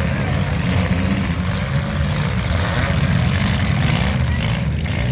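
Engines of several bone-stock compact demolition derby cars running together, a loud, steady low drone.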